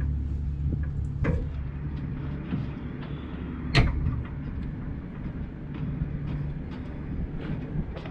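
Truck engine running on the road while towing a loaded gooseneck trailer, its low hum easing off about two and a half seconds in. Scattered knocks and rattles, with one sharp clunk a little before four seconds.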